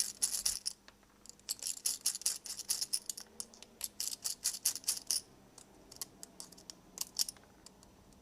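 Quick, irregular run of small, light metallic clicks from a precision screwdriver and tiny screws as the retaining screws of a DJI Mavic 3T camera's lens module are backed out. The run stops about five seconds in, and a few single clicks follow near the end.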